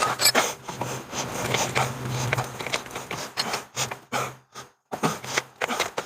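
Irregular clicking and scraping of a hand grease gun being worked on the grease fittings of a truck's front suspension.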